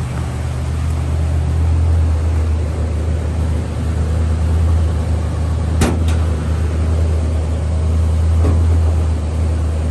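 1969 Chrysler Town & Country wagon's V8 idling steadily at low idle on a cold start, with an even low rumble. A single sharp click comes about six seconds in.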